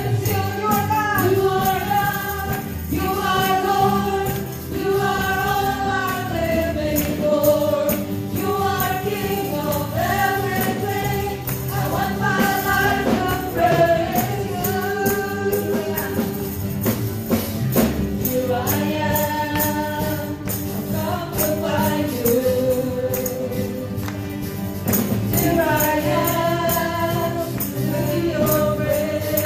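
Worship song in gospel style: a group of voices singing held, sustained phrases over a band, with a tambourine shaking and striking throughout.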